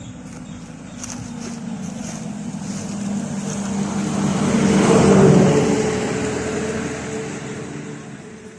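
An engine passes by, its steady hum growing louder to a peak about five seconds in and then fading away.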